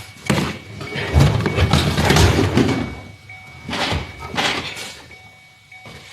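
Knocks and thuds from work on a car's interior, with a longer rattling, scraping stretch in the middle and two more knocks near the end.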